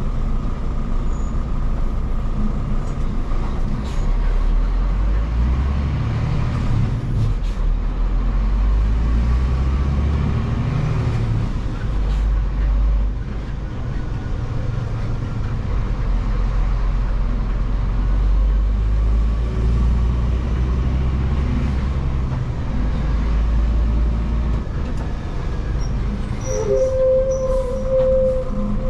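Scania vacuum truck's diesel engine running under way, a steady low drone that rises and falls in pitch several times. A short steady tone sounds about two seconds before the end.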